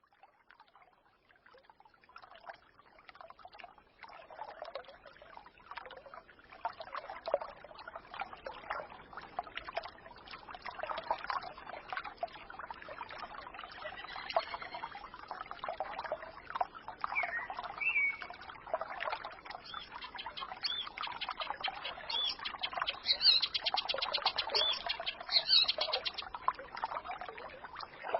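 Small forest stream trickling and babbling, fading in over the first few seconds and building up, with songbirds calling over it and a fast, high trill near the end.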